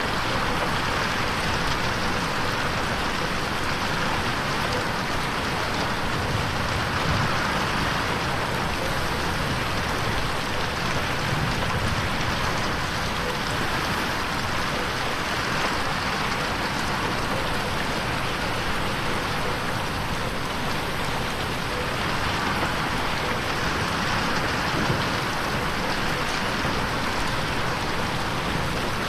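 Steady rain pattering on a window pane, an even hiss of drops that swells and eases slightly.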